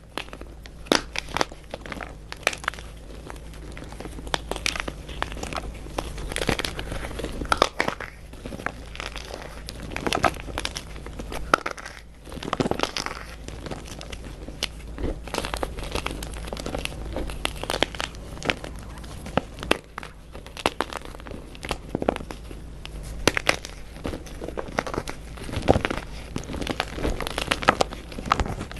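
Crunchy dyed gym chalk being crushed and crumbled, a dense, irregular run of crunches and crackles with louder snaps scattered throughout.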